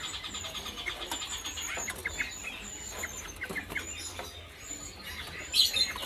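Several caged songbirds chirping and twittering over one another: short, scattered high chirps and thin whistles, with a quick trill in the first second, over a faint low steady hum.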